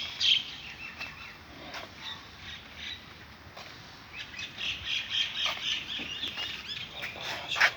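Birds chirping and squawking in short, repeated calls, with a busy flurry of calls from about four to six seconds in, and a sharp click near the end.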